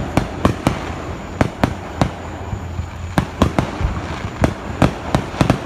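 Fireworks going off: a rapid, irregular string of sharp bangs and pops, several a second, some close together in clusters.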